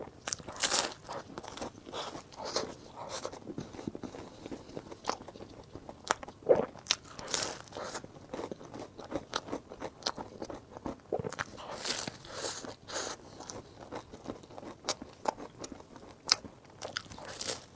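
Close-miked eating: a person biting and chewing, with irregular crisp clicks and smacks of the mouth and food throughout.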